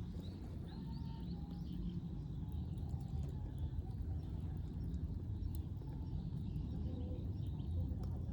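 Faint bird chirps over a steady low rumble, with a few scattered light ticks.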